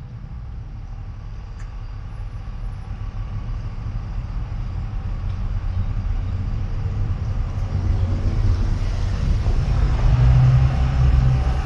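Low vehicle rumble building steadily louder, as of heavy traffic or a train drawing near.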